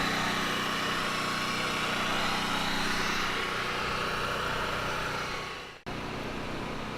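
Steady engine-like running noise with a low hum. It fades out about six seconds in, then cuts to a quieter, similar hum.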